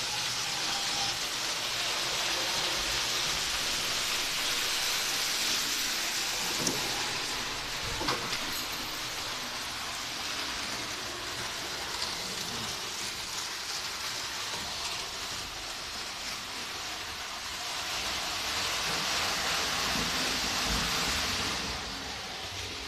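Miniature train running on its track, a steady rushing hiss that swells twice as it comes closer, with a couple of sharp clicks about seven and eight seconds in.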